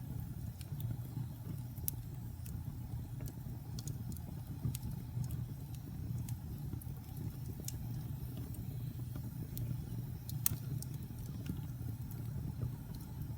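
Wood fire burning in a fireplace: a steady low rumble of flames with scattered sharp crackles and pops from the burning wood, one louder pop about ten seconds in.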